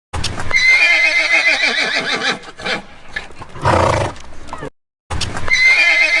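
A horse neighing: a long wavering whinny, then after a short break the same neigh starts again.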